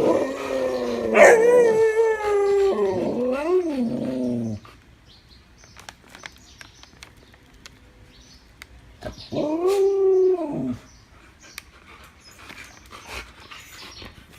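Siberian husky "talking": one long, wavering howl-like whine lasting about four and a half seconds, then a shorter call that rises and falls about nine seconds in.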